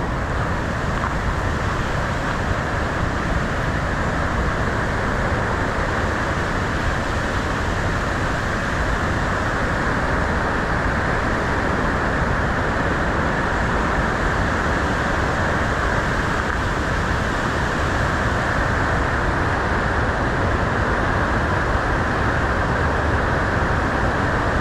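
Whitewater rushing steadily in a river: a loud, even rush of water with no let-up.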